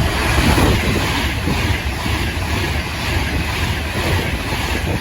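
A train passing close by at speed: a loud, steady rumble of wheels on rail with a rush of air noise.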